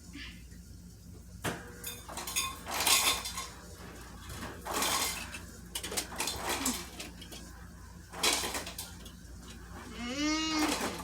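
Repeated clattering and clinking, like glass bottles and cans tumbling out of a bin into a garbage truck's hopper, in several bursts. Near the end comes a wavering, bleat-like call.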